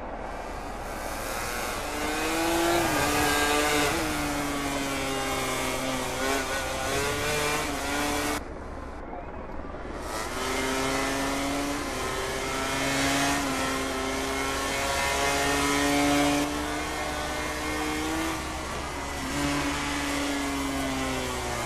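MotoGP racing motorcycle engine running at high revs, its pitch holding for a second or two and then stepping up and down through the gears.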